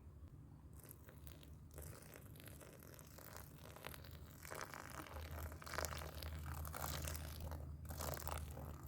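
Close crunching and crinkling handling sounds, starting about a second in and getting louder in the second half, over a steady low hum.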